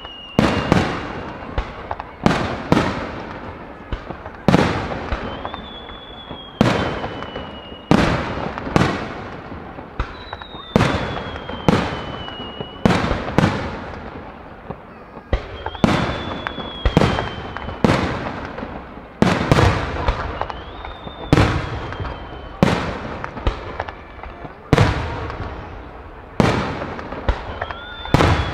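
Aerial firework shells bursting in a steady barrage, a sharp bang every second or two, each trailing off in an echo. A thin whistle gliding down in pitch comes back every five seconds or so.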